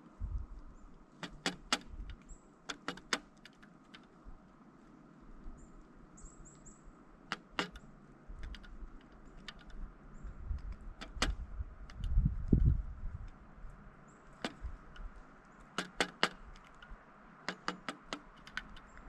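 Pileated woodpecker pecking at a suet feeder: sharp taps in quick clusters of two to four, with a few low thuds about twelve seconds in.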